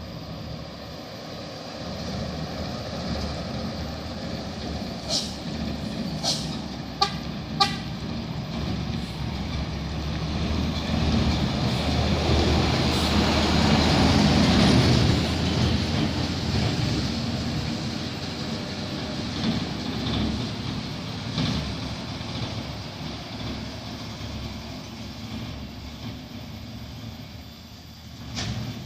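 Heavily loaded dump truck's diesel engine passing, growing louder to a peak about halfway through and then fading away. Several short horn toots sound about five to eight seconds in.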